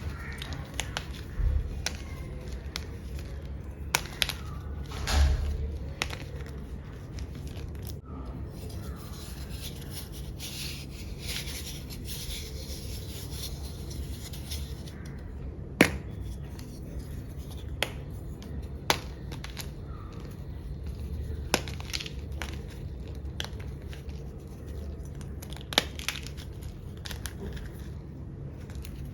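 Blocks of gym chalk being crushed: dry crumbling and crunching, broken by sharp cracks as pieces snap, with the loudest about five seconds in and again near the middle.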